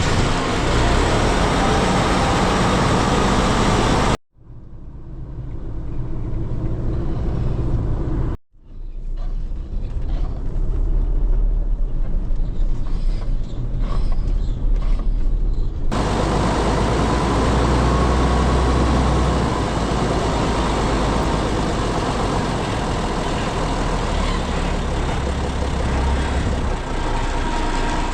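Truck diesel engine running steadily with a deep low rumble, heard across several cut shots with sudden breaks about 4 and 8 seconds in.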